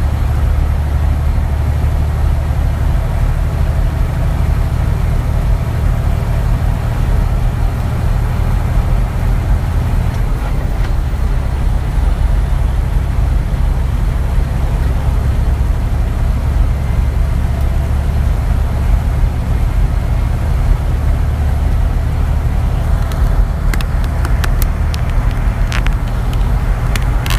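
Truck driving along, with a steady low engine and road rumble. The low note shifts about ten seconds in, and a few sharp clicks or rattles come near the end.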